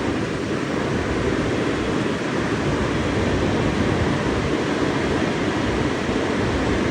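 Automatic car wash machinery running: a steady, loud rushing rumble.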